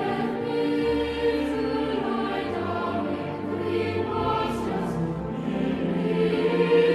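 Choir singing slow, sustained hymn-style chords over a held bass line, with the chords changing every second or two.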